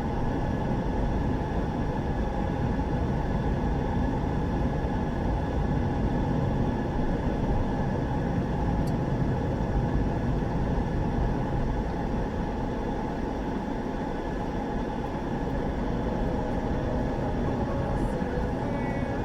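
Steady rumble of road and engine noise heard from inside a car's cabin while driving.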